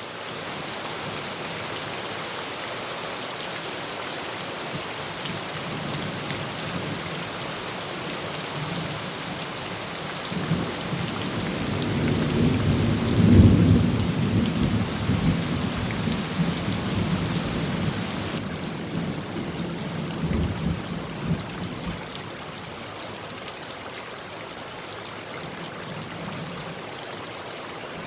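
Heavy rain falling steadily on a tin roof. About ten seconds in, a long deep roll of thunder builds, peaks a few seconds later, and fades out over the next several seconds.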